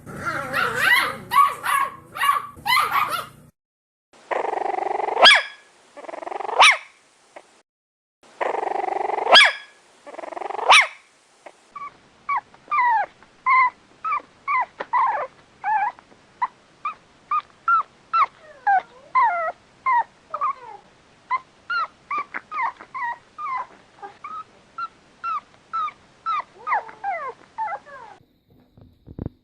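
Dogs barking and whimpering, clip after clip. A burst of quick barks and yips comes first, then two pairs of harsh, rasping barks, and for the second half a long run of short, high whimpering cries, about two or three a second.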